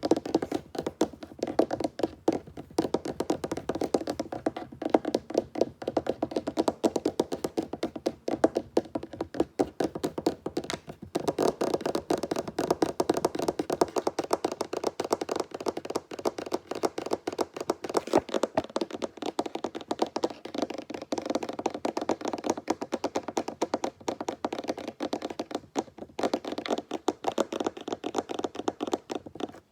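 Fingertips tapping fast on a wooden tabletop: a dense, continuous patter of quick taps, with a few brief pauses.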